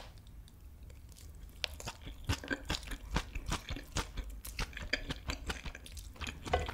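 Close-miked chewing of a mouthful of kimchi fried rice with melted cheese: soft wet mouth clicks and smacks, which get busier about one and a half seconds in.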